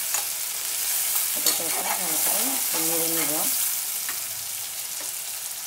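Prawns frying in hot oil in a kadai, browning: a steady sizzle, with a spatula scraping and stirring them against the pan.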